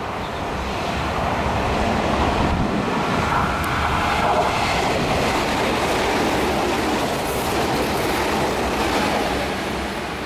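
Meitetsu limited-express electric train passing through a station at speed without stopping. The rush of wheel and motor noise swells to its loudest about four seconds in and eases off near the end.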